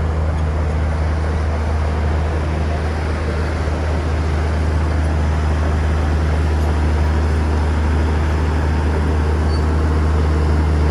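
Bulldozer's diesel engine running steadily, a deep, even drone.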